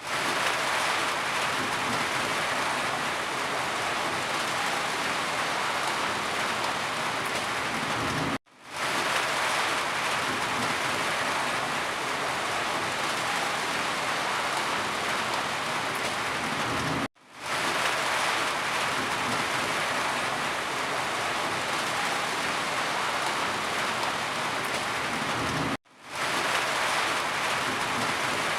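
Steady, heavy rain falling, a dense even hiss. It cuts out to silence for a split second three times, about every nine seconds, and fades back in each time.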